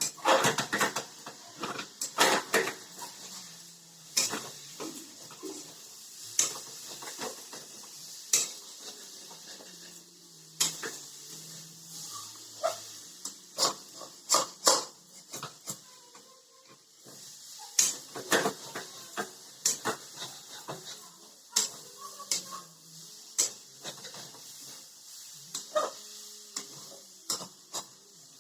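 A spatula clanking and scraping irregularly against a cooking pan as fried pointed gourd is stirred into a masala, over a light sizzle.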